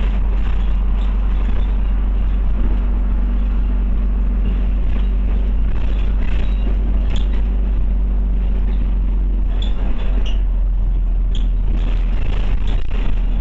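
Inside a moving Scania OmniCity diesel bus: a steady low engine and road drone, with faint rattles and ticks from the bodywork now and then.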